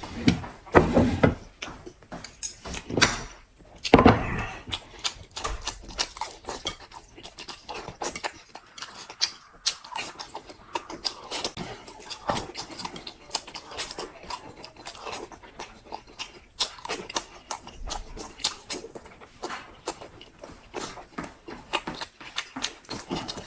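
Close-up eating sounds: chewing and mouth smacking, with many small irregular clicks and taps of utensils and dishes and a few louder knocks in the first few seconds.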